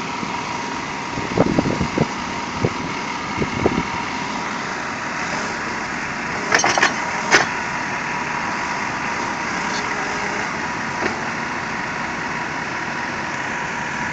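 Heavy vehicle engine running steadily, with a few knocks about two to four seconds in and a couple of sharp clanks around seven seconds in.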